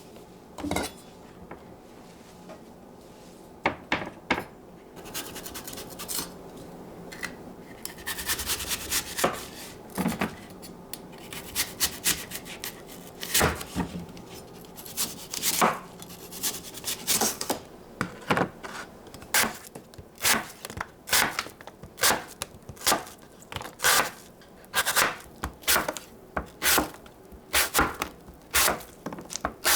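Kitchen knife chopping on a wooden cutting board, steady strokes about twice a second through the second half, after a few knocks and some rubbing and handling sounds in the first half.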